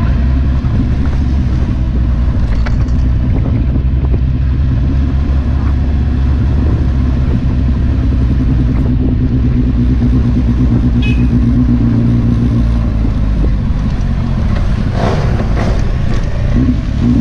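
Kawasaki Z800's inline-four engine running at a steady pace under way, then easing off about thirteen seconds in.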